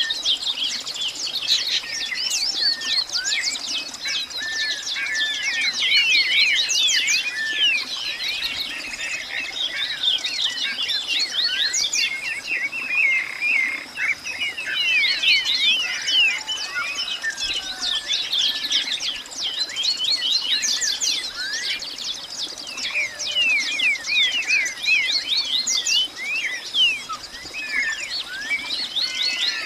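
Many birds calling at once, a dense chorus of quick, overlapping chirps and whistles with short lulls, over a steady high-pitched tone.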